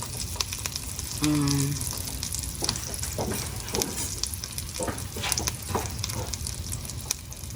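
Oil sizzling in a frying pan as flatbread toasts in it, with scattered crackles and pops. A short low hum-like sound comes in about a second and a half in.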